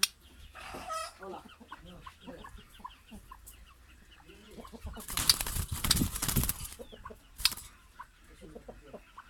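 Short clucking bird calls. About halfway through there is a loud rustling noise lasting roughly two seconds.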